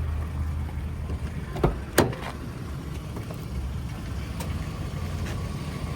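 Two sharp knocks about half a second apart, the second louder, then a fainter click, over a steady low rumble.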